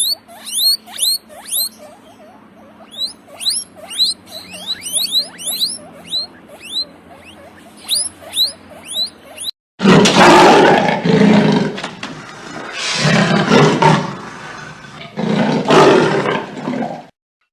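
A bird calling in quick falling chirps, many in a row. Then, after a sudden cut, a big cat roaring in three long, loud bursts.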